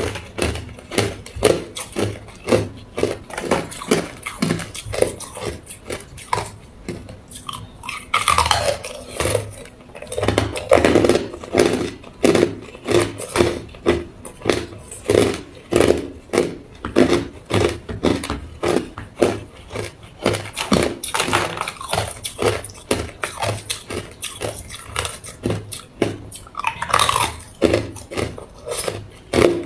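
A person chewing hard ice cubes, crunching them between the teeth about three times a second in a steady rhythm.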